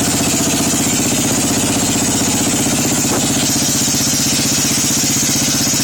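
Small engine running steadily just after a cold start in freezing weather.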